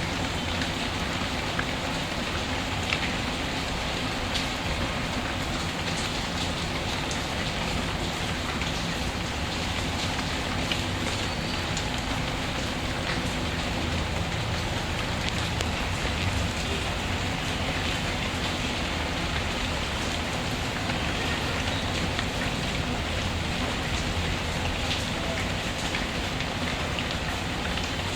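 Steady rain falling on a surface, with small sharp crackles from a wood fire scattered through it.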